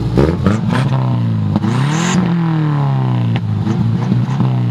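2000 Subaru Outback's stock 2.5-litre EJ25 flat-four engine, breathing through a muffler-delete exhaust, revved up and let back down twice. It is loud, the engine note climbing for about two seconds, dropping, then rising and falling once more.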